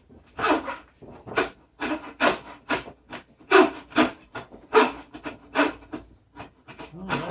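A hand tool stroked back and forth by hand, rasping material off a part: about ten scraping strokes at one to two a second, lighter near the end.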